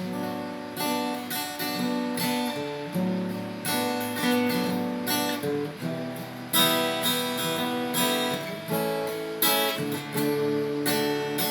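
Acoustic guitar strumming chords in a steady rhythm: the instrumental opening of a Thai song, with no voice yet.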